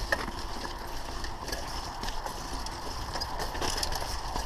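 Mountain bike rolling over a dirt trail: steady tyre and rolling noise with many small rattles and clicks from the bike, and wind rumbling on the microphone.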